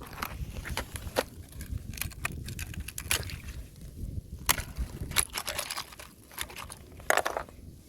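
Fresh ice crunching and cracking under footsteps, in irregular sharp cracks, with a louder cluster of cracks about seven seconds in.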